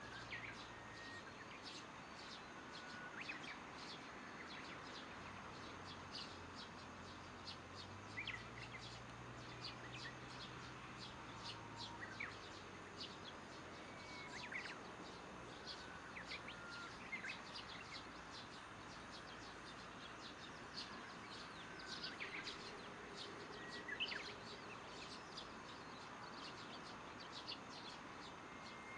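Faint birds and insects calling: a continuous fast chirping high up, with scattered short bird calls every few seconds.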